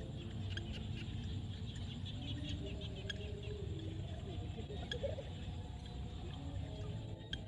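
Frogs calling in a field: many short, high chirps and clicks scattered through, over a steady low rumble and faint wavering lower tones.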